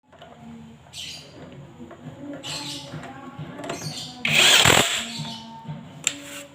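Background music, with a cordless impact wrench firing in a short loud burst about four seconds in.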